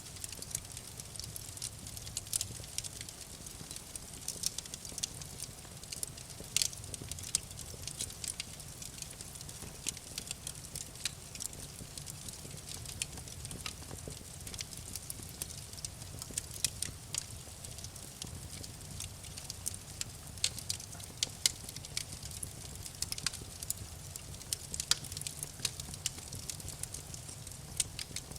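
Wood fire crackling and popping irregularly, with many sharp snaps over a steady low rumble of flames.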